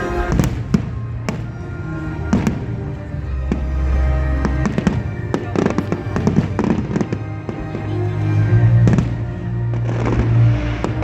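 Fireworks bursting and crackling many times, over music with held low notes.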